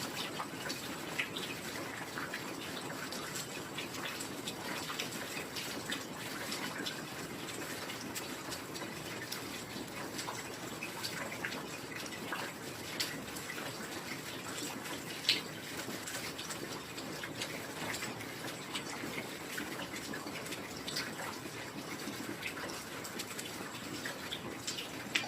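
Heavy rain falling steadily, with scattered sharp drop hits and one louder drop about 15 seconds in.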